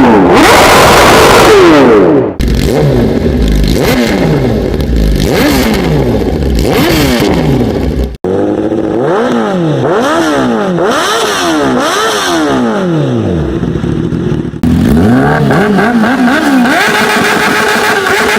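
High-revving sport motorcycle engines, several different bikes in turn, each blipped repeatedly so that the pitch shoots up and falls back about once a second. The sound changes abruptly from one bike to the next three times.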